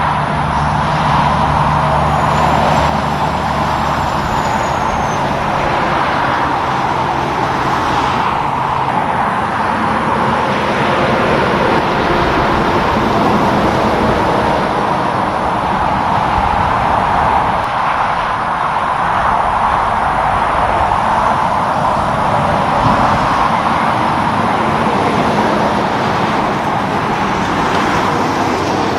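Roadway traffic passing steadily: tyre and engine noise of cars and trucks, with a truck engine's low drone over the first few seconds.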